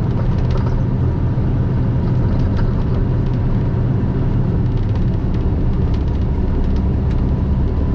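Semi truck's diesel engine pulling steadily up a long highway grade with an empty trailer, a constant low drone mixed with tyre and road noise inside the cab.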